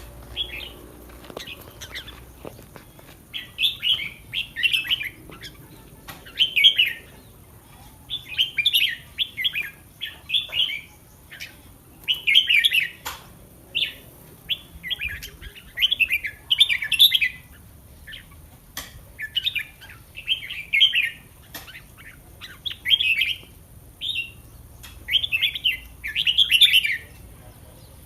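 Red-whiskered bulbul singing: short, quick phrases repeated about once a second, with a few faint clicks between them.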